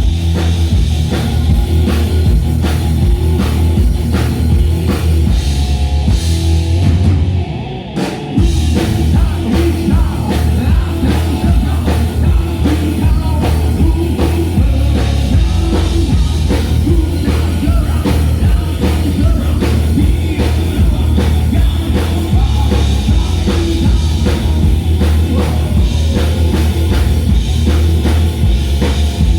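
A live rock band playing at full volume during a sound check: a drum kit keeping a steady beat over heavy bass and electric guitar, with a short break about a quarter of the way in before the band comes back in.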